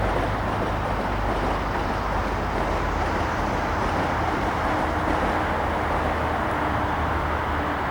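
Passenger train hauled by an EP20 electric locomotive running past, a loud, steady rolling rumble with no breaks.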